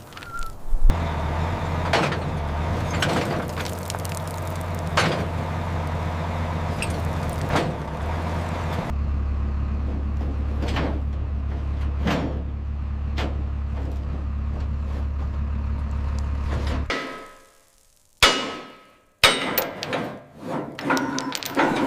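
A motor running with a steady low hum under repeated sharp metallic clanks, as of steel chains being handled and tightened. The hum shifts in pitch about halfway through and cuts off suddenly near the end. Two sharp metal knocks and a rattling clatter of chain follow.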